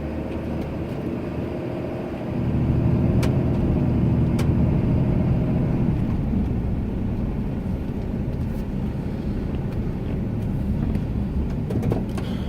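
Ram 2500 plow truck's engine running while plowing snow, getting louder about two seconds in as it takes on load, with a couple of light clicks.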